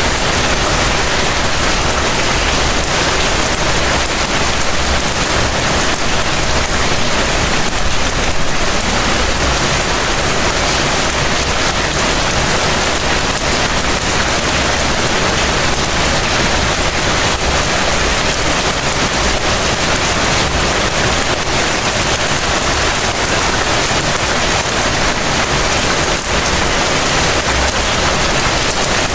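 Heavy rain falling steadily: a dense, even hiss of rainfall with no letup.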